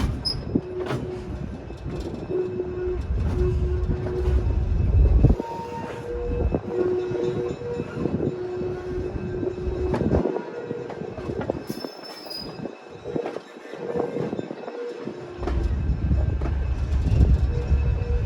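Museum train shoving slowly toward the platform: low rumble of the locomotive and cars, with knocks from the wheels and short steady tones coming and going.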